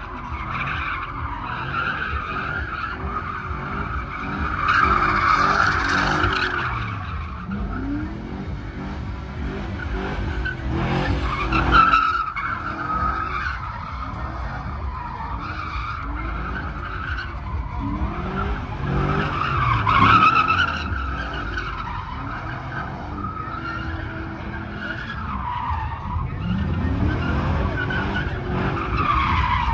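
Pickup truck doing a burnout: the engine revs up and down over and over while the spinning tires screech, swelling louder a few times.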